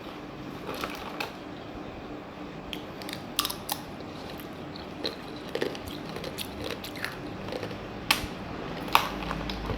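Edible sugar-glass candy being bitten and crunched: scattered sharp cracks, about eight spread irregularly, the loudest two near the end.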